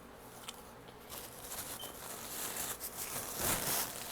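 Close-miked eating sounds: chewing with the mouth near the microphone, a few small clicks at first, then growing louder about two seconds in.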